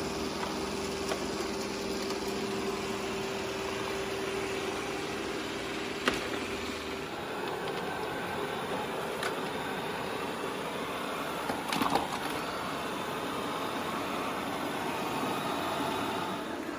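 Robot vacuum cleaners running on the floor: a steady whirring of suction motor and brushes. About seven seconds in, a held hum drops away and the whir changes, as if a different machine takes over. There are a few light clicks along the way.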